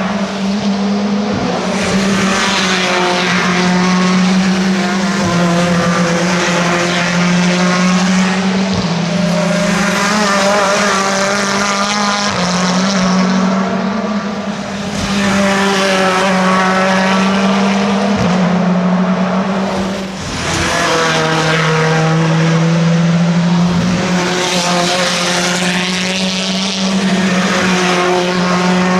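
Circuit racing cars passing at speed one after another, their engine notes rising and falling in pitch as each goes by, over a steady drone.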